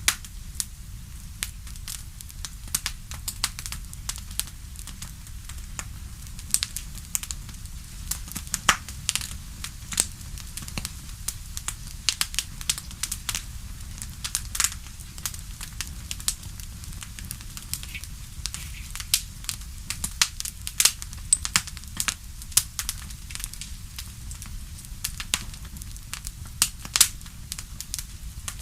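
Wood fire crackling, with frequent sharp irregular pops and snaps over a steady low rumble of the flames.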